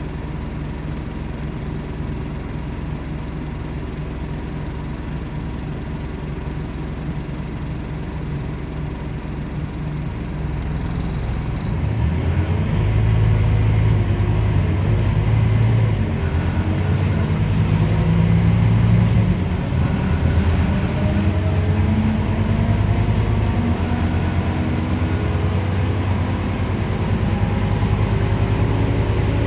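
Scania CN270UB city bus's diesel engine running steadily at low revs, then about twelve seconds in it gets louder as the bus pulls away and accelerates, the engine note rising, dropping briefly at a gear change, and rising again.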